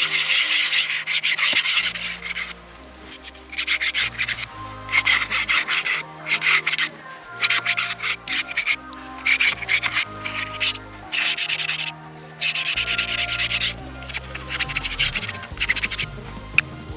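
A brush scrubbing fabric car-seat upholstery worked with foam cleaner, in fast rasping strokes that come in bursts with short pauses between them.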